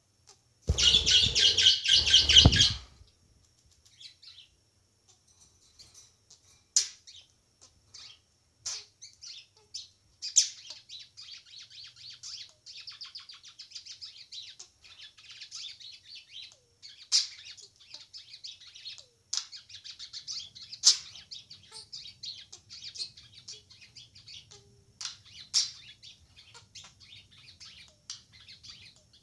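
Pet small bird chirping and twittering in quick high chatter, with sharp single chirps, building up from about ten seconds in. About a second in there is a loud burst lasting about two seconds.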